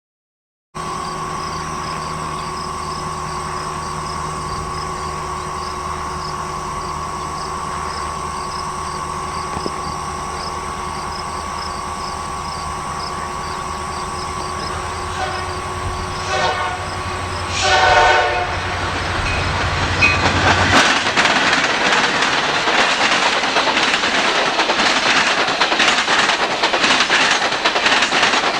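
Diesel freight locomotives running steadily as they approach, then the horn sounds in short blasts. From about two-thirds of the way through, the train's cars clatter past on the rails, louder than before.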